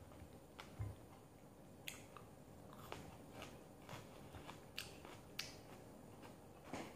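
A person chewing chicken with her mouth close to the microphone, with scattered soft clicks and smacks.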